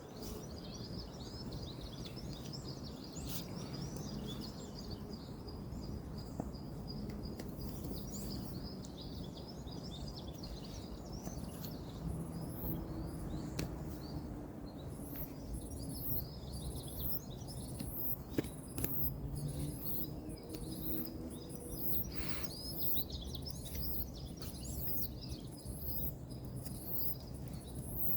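Outdoor ambience: small birds chirping over a steady low rumble of distant road traffic, with a few faint clicks and, from about halfway, a faint high pulsing about once a second.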